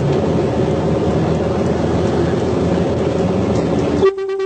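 Train running with a steady rumble, then a short horn blast about four seconds in.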